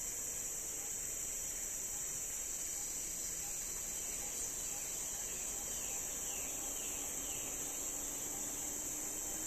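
Steady, high-pitched chorus of insects. About six seconds in, a short run of four or five falling chirps joins it.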